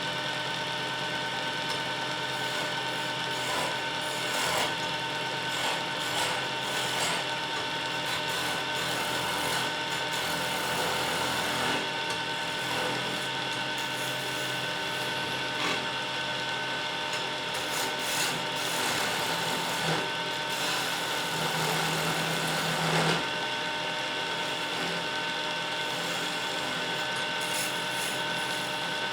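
Wood lathe running steadily with a constant motor hum, while a turning tool scrapes and cuts the spinning wood in uneven strokes.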